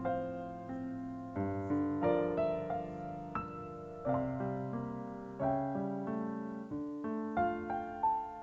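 Background piano music: soft chords and single notes struck at an unhurried pace.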